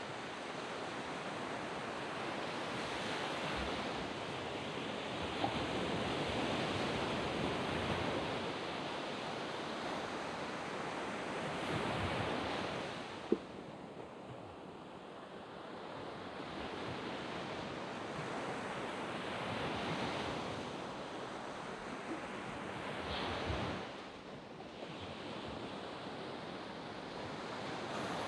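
Waves breaking on a sand beach. The surf swells and ebbs in slow surges and drops away after a wash near the middle and again near the end, with a little wind on the microphone.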